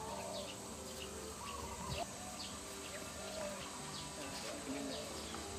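Scattered short bird chirps, several a second at times, over a faint outdoor background.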